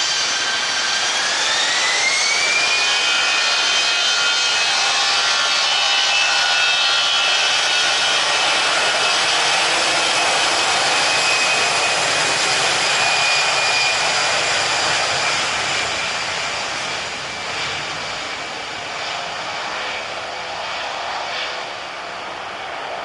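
Jet airliner's engines with a whine that rises in pitch about a second in, then holds steady and loud before slowly fading over the last several seconds.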